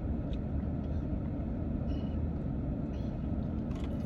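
Steady low rumble of a parked car running, heard from inside the cabin, with a few faint small clicks.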